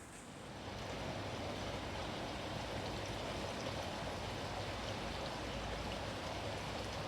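Steady hiss of running or falling water that swells up about a second in and then holds.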